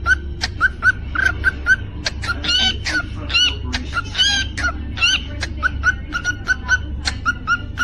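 Cockatiel calling: a string of short, quick chirps, about four a second, broken in the middle by a few longer warbling whistles, then more chirps.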